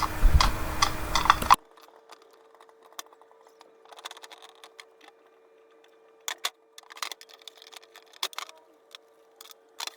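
Light clicks and rattles of small parts being handled, scattered and faint over a faint steady hum. A louder, noisier stretch cuts off abruptly about a second and a half in.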